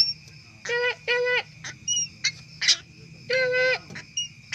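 A crow cawing: two short, nasal caws about a second in, then a longer drawn-out caw near the end, with a few sharp clicks between them.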